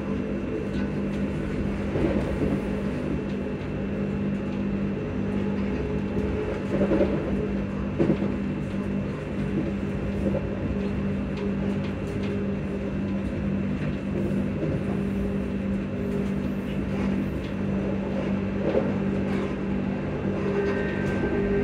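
Electric train in motion, heard on board: a steady hum of the traction motors and VVVF inverter cooling fans over a constant wheel-on-rail rumble, with a few brief knocks. Near the end a higher steady tone joins in.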